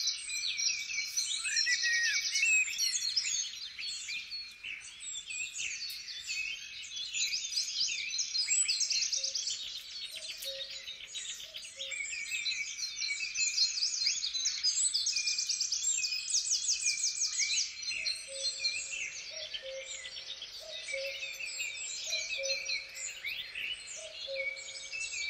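Several birds singing and calling at once, a dense chorus of quick high chirps and trills. A lower, repeating two-note figure joins about nine seconds in and again from about eighteen seconds.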